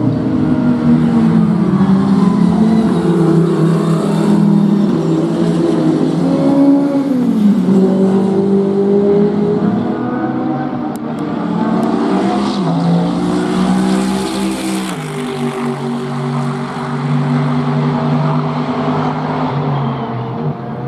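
Race car engines running hard on a circuit. The engine note rises and falls with gear changes, dropping sharply about seven seconds in and again about twelve to fifteen seconds in, as the cars shift down.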